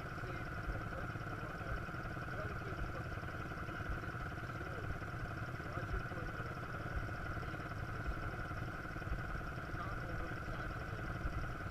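Quad bike engine running steadily, a constant drone with a low rumbling underneath.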